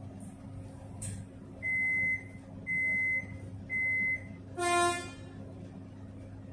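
Melbourne Metro train's door-closing warning: three evenly spaced high beeps, then a short buzzy tone, over the steady low hum of the train at the platform.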